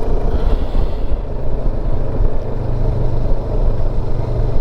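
Motorcycle engine running at a steady speed while riding, heard under heavy wind rumble on the rider's microphone.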